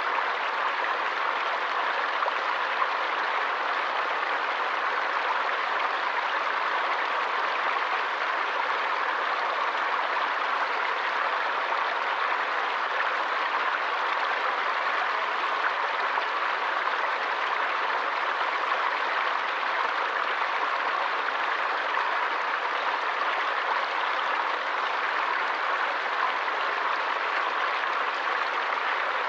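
Water in a stream flowing steadily: an even, unbroken rush with no changes.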